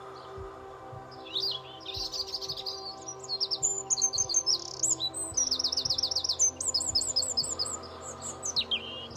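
Songbird singing in quick runs of repeated chirps and trills, starting about a second and a half in, over soft, steady background music.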